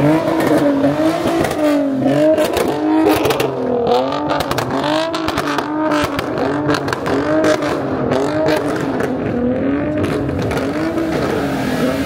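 A car engine revved over and over in quick throttle blips, its pitch rising and falling about once a second, with a run of sharp pops and cracks around the middle.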